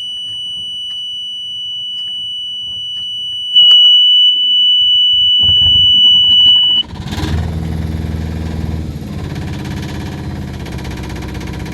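Boat engine panel warning buzzer sounding one steady high tone, louder about three and a half seconds in, while the starter cranks the engine. The engine catches and the buzzer cuts off suddenly, and the engine then idles steadily.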